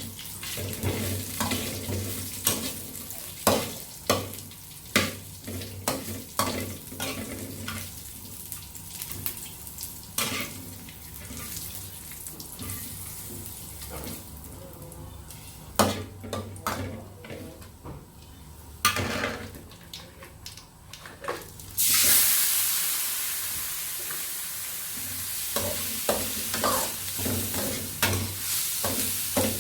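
Food frying in a pan while a utensil stirs it, with repeated clacks of the utensil against the pan. About 22 s in, a sudden loud sizzle rises up, fades over a few seconds, and then the stirring clatter starts again.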